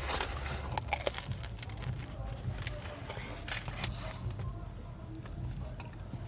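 Irregular clicks and rustles of someone eating a bacon-and-egg garlic bagel sandwich, over a low steady rumble.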